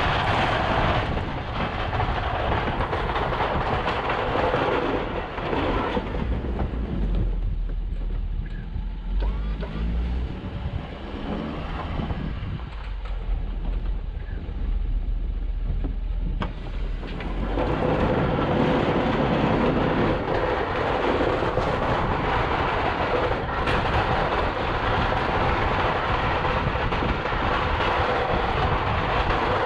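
Snow-plow truck running while pushing snow: a steady rushing, scraping noise over the engine. From about six seconds in the rushing falls away for roughly ten seconds, leaving mostly a low engine rumble, then it comes back.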